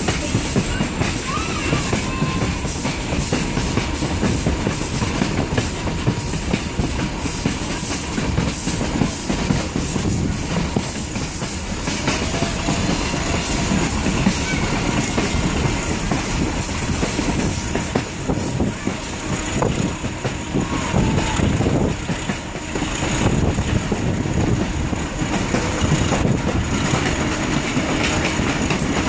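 Passenger train rolling along the track: a steady rumble and rattle of wheels on rail and the swaying car.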